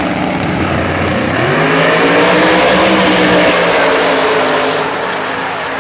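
Drag race cars at full throttle down the strip. The engine note rises about a second and a half in, is loudest around two to three seconds in, then fades away.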